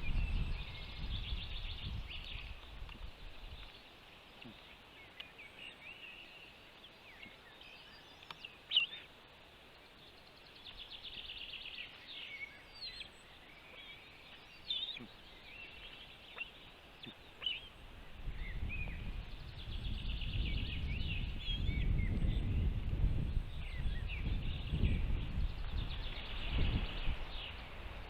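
Small birds chirping at the nest: many short, high, thin calls and buzzy trills throughout. A low rumble underlies them in the first few seconds and again over the last third.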